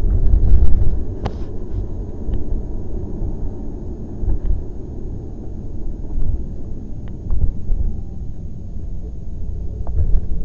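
Lamborghini Gallardo's V10 engine and tyres heard from inside the cabin while driving, a steady low rumble with a few faint clicks.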